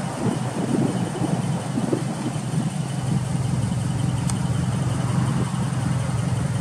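Subaru Impreza WRX's EJ20 turbocharged flat-four engine idling steadily through an aftermarket muffler.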